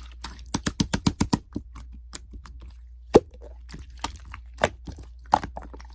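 Sharp cracking clicks: a quick run of them about half a second in, then three louder single cracks spaced a second or more apart, over a low steady hum.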